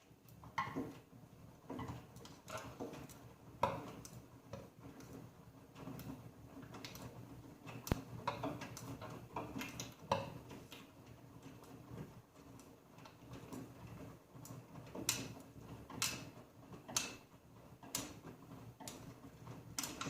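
AEG Öko-Lavamat 88840 washing machine running mid-programme, its drum turning. A low steady hum runs under irregular clicks and knocks, some of them sharp.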